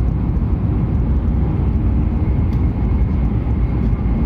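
Hokuriku Shinkansen train running at speed, heard from inside the passenger car as a steady, deep rumble of running noise.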